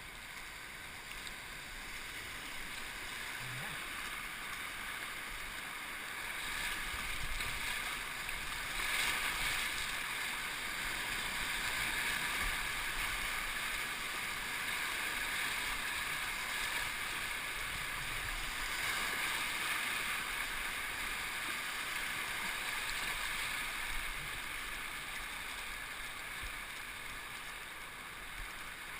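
Rushing river water, a steady hiss of moving current. It grows louder a few seconds in and eases off near the end, as the boat passes through rapids.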